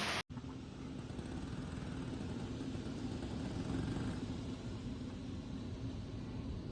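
A loud even hiss cuts off abruptly a quarter second in, giving way to a steady low rumble with a faint hum.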